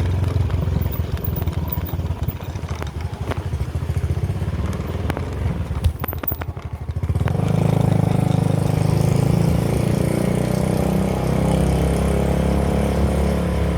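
A motor running with a steady low rumble; it dips briefly about six seconds in and comes back louder about a second later.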